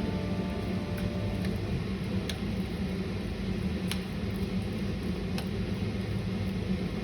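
Steady mechanical hum and hiss of a running fan or kitchen appliance, with a few faint clicks.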